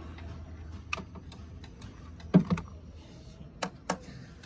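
Irregular sharp metallic clicks and taps of hand tools being handled on engine parts, about eight in all, with a heavier knock about two and a half seconds in.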